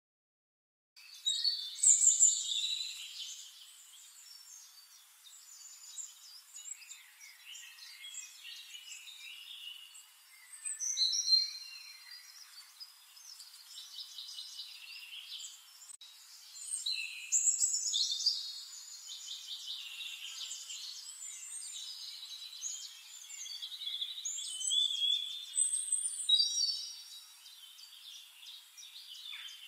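Songbirds singing: overlapping chirps and trilled phrases, starting about a second in, with louder bursts every several seconds.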